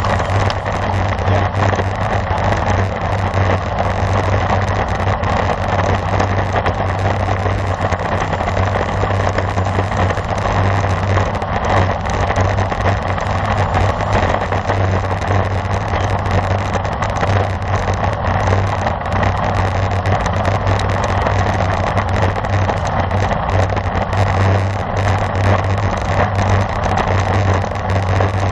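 Steady rushing wind on the microphone and tyre noise from a road bike riding at race speed, with a constant low hum underneath.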